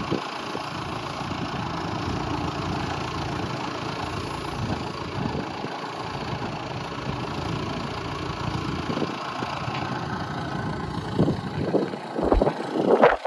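A vehicle engine idling steadily under heavy wind buffeting on the microphone, with louder gusts in the last couple of seconds.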